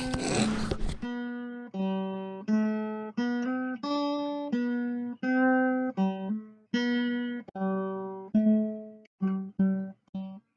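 Music: a plucked guitar playing a slow melody of single notes, each ringing and dying away, after a short noisy rush in the first second.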